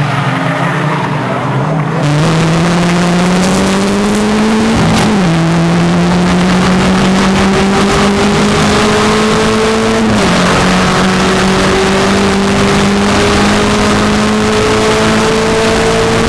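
Racing car engine under hard acceleration, its note climbing steadily. There are two upshifts, about five and ten seconds in, each dropping the pitch before it climbs again.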